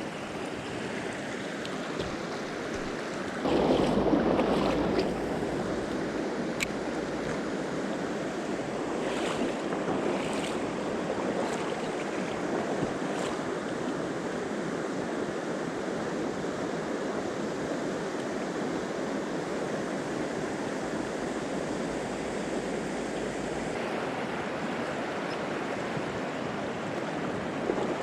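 Rushing water of a river or stream, steady throughout, with a louder surge about three and a half seconds in and a few faint ticks.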